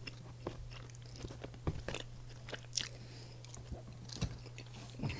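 Close-miked eating sounds of a person chewing and biting food: scattered wet mouth clicks with a few crisp crunches, over a faint steady low hum.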